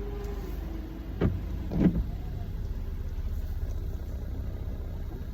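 Car engine idling, a steady low rumble heard from inside the cabin, with two short knocks about a second apart, the second louder.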